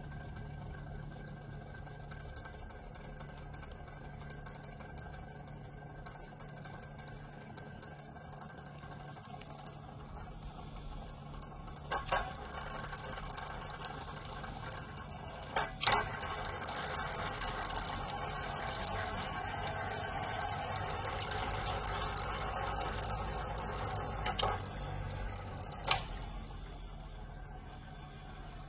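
Comfort Zone 9-inch cradle fan with aluminum blades running: a steady low motor hum under a fast, fine rattle. A few sharp knocks come partway through, and a louder rush of air lasts several seconds in the middle.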